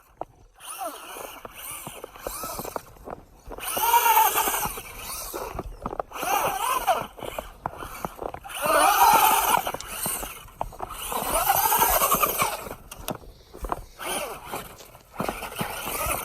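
Traxxas Rustler 2WD radio-control truck's electric motor whining up and down in pitch in several bursts of throttle, with a hiss of its tyres churning through snow.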